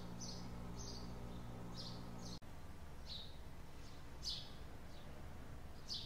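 Small birds chirping: short, high chirps, about one or two a second, over a steady low hum, with a momentary dropout a little before halfway.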